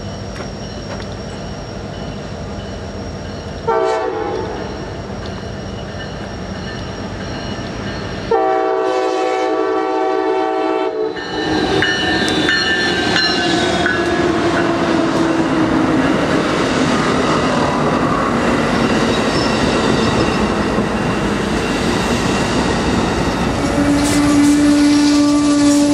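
Amtrak passenger train sounding its horn, one short blast and then a long blast about eight seconds in, then rushing close by, its wheels clattering on the rails as the locomotive and bi-level cars pass.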